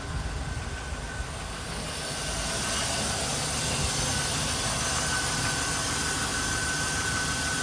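1999 Chevrolet Silverado 2500's engine idling after a cold start, a low steady idle. Over the first two seconds a steady hiss with a thin, even whine rises over it and stays.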